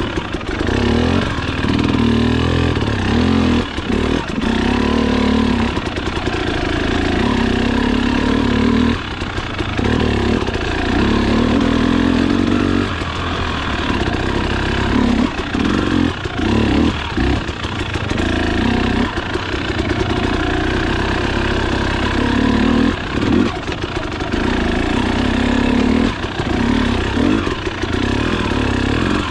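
Trail motorcycle engine pulling up a rough climb in a low gear, the throttle opened and eased off again and again so the engine note swells and dips every second or two.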